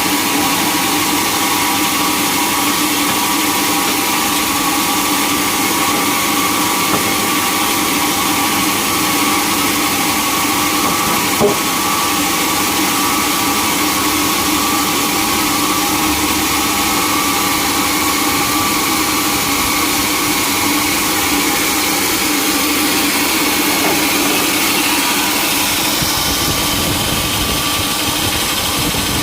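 Sawmill engine running at a steady speed, with one brief tick near the middle.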